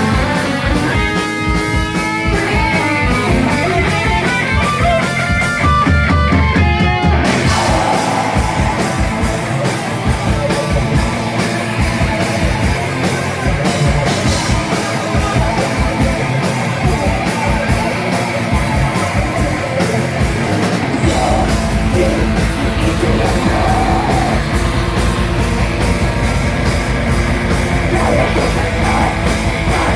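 A rock band playing live on amplified electric guitar, bass and drums. A picked guitar line stands out at first, then the full band comes in, with a heavier, steadier low end from about two-thirds of the way through.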